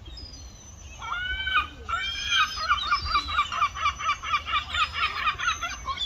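Seagull giving its long call: a couple of drawn-out, arched cries, then a fast run of repeated yelping notes, about five a second.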